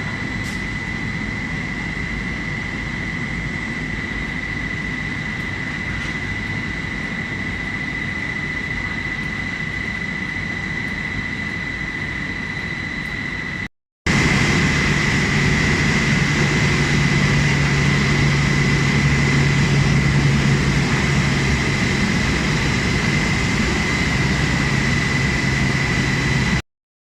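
Flat glass tempering furnace running: a loud, steady mechanical noise with a constant high whine. The noise breaks off briefly about halfway, then comes back louder with a low hum added, and stops about half a second before the end.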